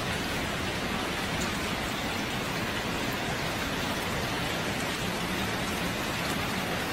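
A steady, even hiss of rushing noise, like heavy rain, that starts and cuts off abruptly.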